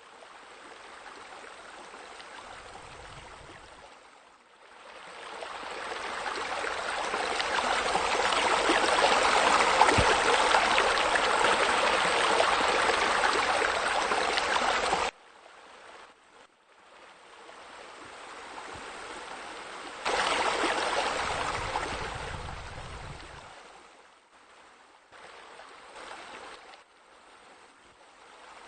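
Water splashing and rushing from a pool waterfall, swelling and fading, dropping suddenly about halfway and coming back louder a few seconds later.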